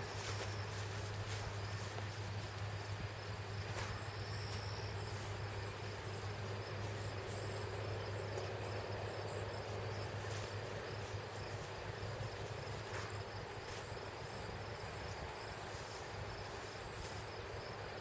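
An insect chirping in short, high-pitched pulses that repeat about once a second from about four seconds in, over a steady background hiss and low hum.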